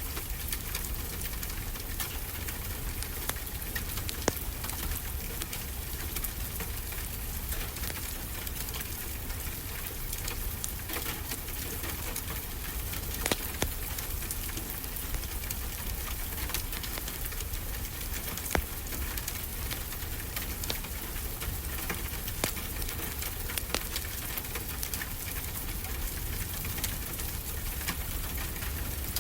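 Wood fire crackling, with scattered sharp pops and a few louder snaps, over the steady wash and low rumble of ocean waves.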